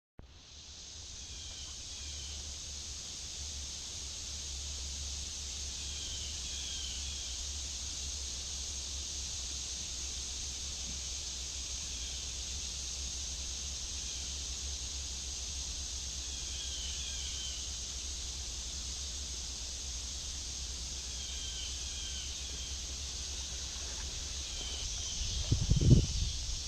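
Outdoor ambience: a steady high insect drone, with a bird singing short chirping phrases every few seconds. Near the end come a few loud knocks.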